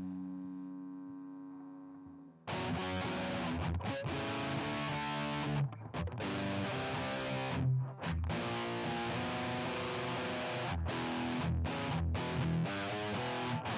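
Electric guitar through a CoolMusic Insane Distortion pedal. A held chord rings out and fades for about two seconds. Then a loud, heavily distorted riff starts abruptly, choppy chords with brief stops between phrases.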